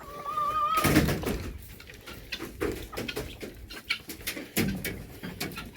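Chickens clucking, opening with one drawn-out wavering call, over rustling and knocking from nearby handling; the rustle is loudest about a second in.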